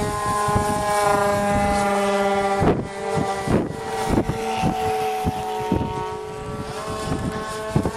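Electric RC combat plane's motor and propeller whining steadily, its pitch drifting gently down and up as it flies, with gusts of wind buffeting the microphone.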